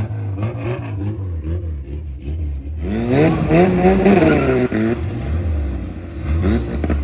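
Tuned Honda Civic B-series four-cylinder engine running with a low drone, then revving hard a few times about three seconds in, its pitch rising and falling, before settling back.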